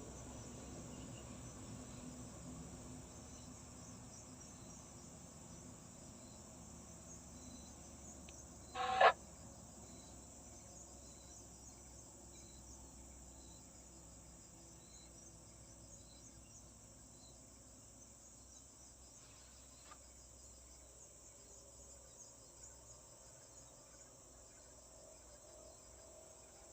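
Insects chirring steadily, with faint chirps repeating about once a second. A low rumble fades out over the first few seconds, and one short loud sound with a definite pitch stands out about nine seconds in.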